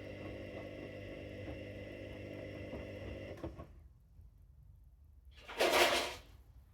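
Washing machine motor running with a steady hum, then stopping about three and a half seconds in, as in the pause between drum turns. About two seconds later there is a short, loud rushing noise.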